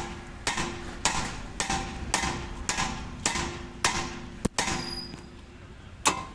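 Hammer striking steel about twice a second, each blow ringing briefly, with a pause before one last blow near the end. It is knocking the worn right-side tie rod end of a Hyundai Grand i10 loose from the steering knuckle.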